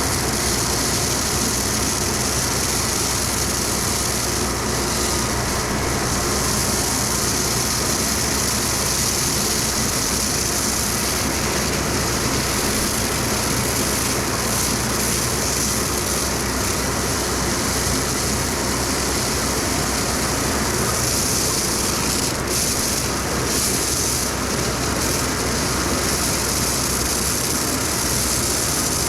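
Stone slinger truck running steadily: a constant diesel drone under a loud, even hiss that does not change.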